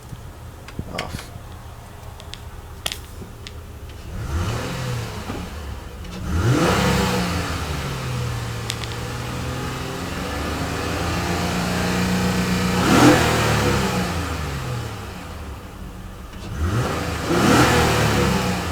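2009 Honda Accord's 3.5-litre i-VTEC V6, warmed up, idling and then revved several times in neutral: two quick blips, a long rev that climbs slowly to a peak and falls back to idle, and one more blip near the end. A few light clicks come over the idle in the first few seconds.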